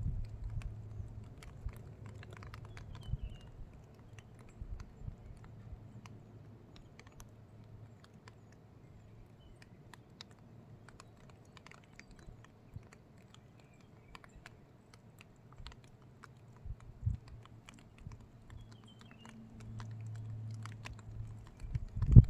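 Irregular light clicks and crackles with a few heavier low thumps, and a faint low hum that comes and goes twice.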